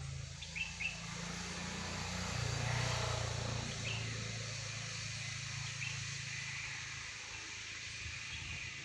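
A motor vehicle's engine running, growing louder to a peak about three seconds in and then slowly fading, with a few short bird chirps over it.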